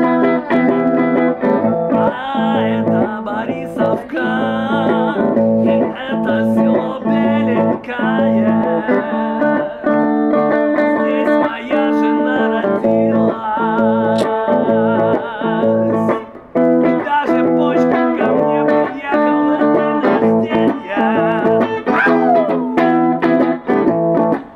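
Blues played on guitar: a steady, repeating bass pattern with a wavering melody over it.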